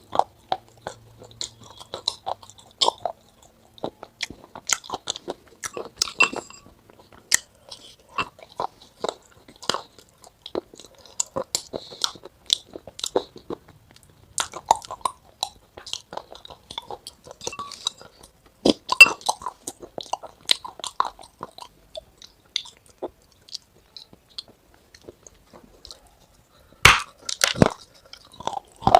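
Chewing and crunching on crisp food: irregular sharp crunches and clicks, louder around nineteen seconds in and again near the end.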